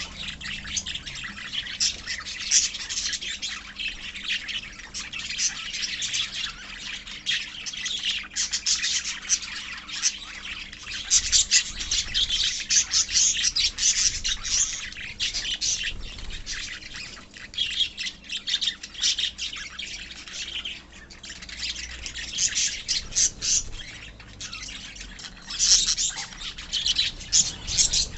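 A colony of caged lovebirds and budgies chirping and squawking, many birds calling over one another in continuous high-pitched chatter.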